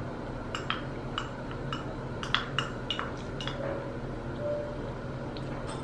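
Dishes and utensils clinking against ceramic at a sushi counter: a quick run of about a dozen light ringing clinks in the first few seconds, then two more near the end, over a steady low hum.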